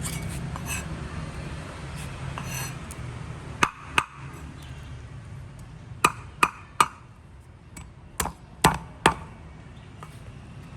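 Sharp knocks of hard objects, about eight in all, coming in twos and threes roughly 0.4 s apart.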